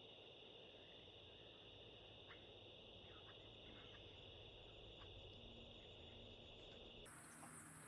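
Faint, steady high-pitched insect chorus, like crickets, over a low outdoor rumble. Near the end the pitch jumps abruptly much higher.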